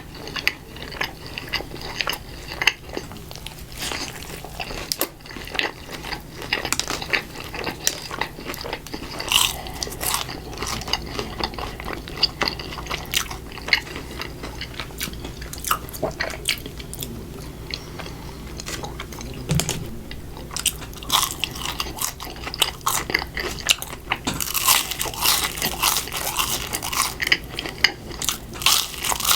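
Close-miked eating of Burger King fast food: steady chewing with crunchy bites and wet mouth clicks, the bites coming thicker and louder near the end.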